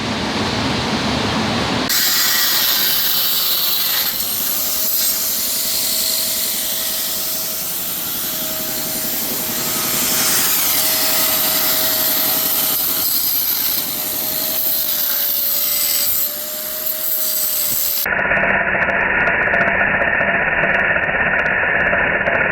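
Power tool cutting or grinding metal under load: a harsh, hissing run with a steady whine that wavers slightly in pitch. About eighteen seconds in it changes abruptly to a duller, muffled tool sound.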